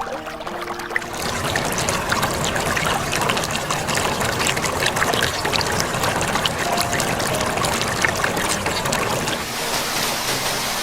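Running water trickling and splashing, a dense even rush full of small drips and clicks. It fades in over soft held music notes in the first second or so.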